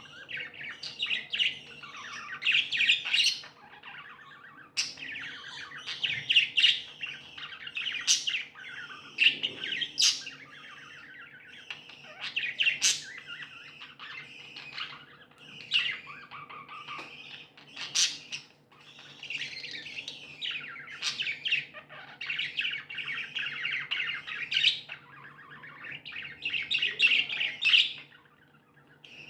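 Several budgerigars chattering and warbling continuously, broken by many sharp, high chirps; a faint steady hum lies underneath.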